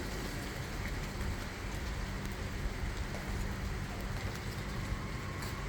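Steady rain falling, an even hiss with a few faint drop ticks, over a low steady hum.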